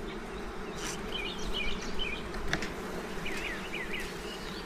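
Honey bees from an opened hive buzzing in a steady, dense hum.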